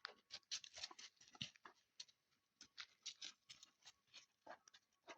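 Faint, irregular short rustles and snuffles: a dog sniffing and moving about as it searches by scent for a small thrown object.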